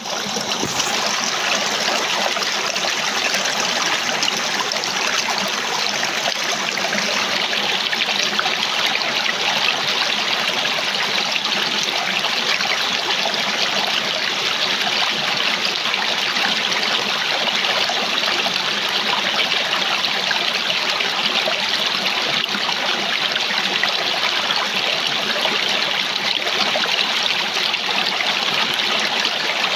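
A small waterfall: water spilling steadily over a short drop and splashing below, an even, constant rush.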